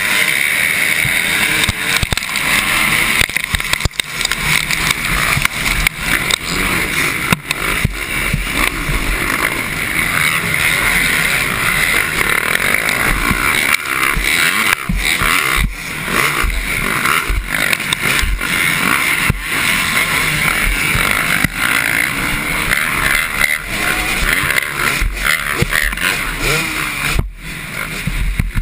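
Motocross dirt bikes racing, their engines revving high and loud.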